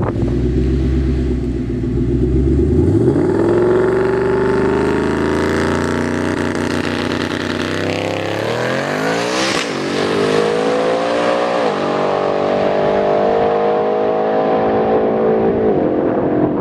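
Twin-turbo Ford Mustang V8 launching and accelerating hard down the drag strip. The engine note climbs, then drops back several times as the 10-speed automatic upshifts, then holds steadier as the car pulls away.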